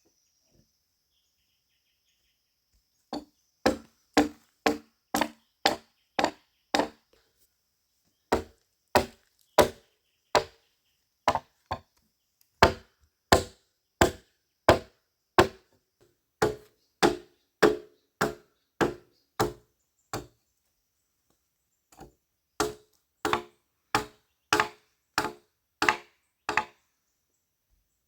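A blade chopping into wood in repeated blows, about two a second, in four runs with short pauses between them. Faint insects can be heard at the start.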